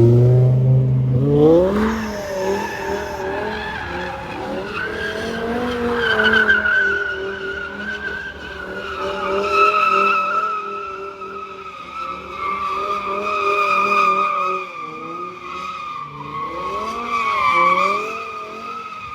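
A car spinning at a car meet: its tyres squeal in a long, wavering screech over the high-revving engine. The engine revs up over the first couple of seconds, and the sound falls away abruptly at the end.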